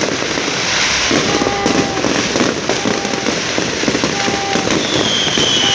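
Fireworks bursting in a dense, continuous crackle, with several short whistling tones and a louder high whistle near the end.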